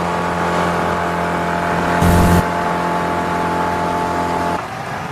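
Boat's outboard motor running steadily with water and wind noise, dropping in level about four and a half seconds in.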